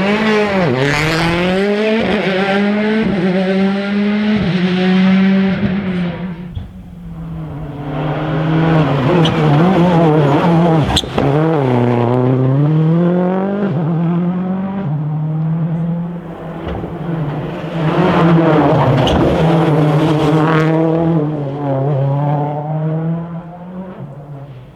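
Rally car engines at full throttle, their pitch climbing and dropping again and again through gear changes and lifts for corners, with some tyre squeal. There is a lull about six seconds in and a sharp pop about eleven seconds in.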